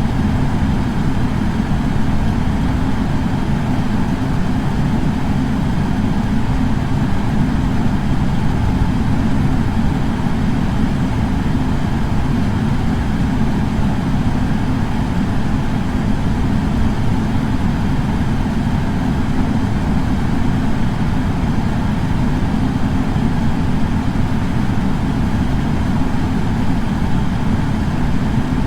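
Air purifier fan running steadily: an even, unbroken rush of air with most of its weight in a low rumble.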